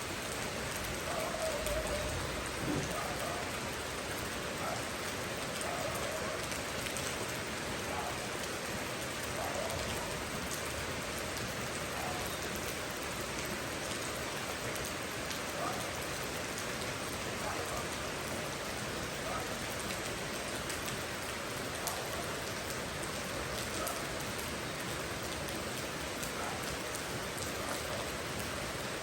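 Steady rain falling, an even hiss, with single heavier drops standing out every second or two.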